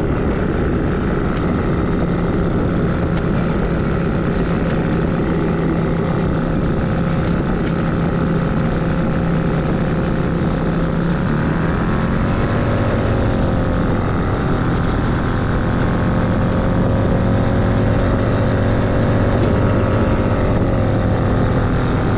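SkyPup ultralight's engine and propeller droning steadily in flight, the engine note shifting a little about halfway through.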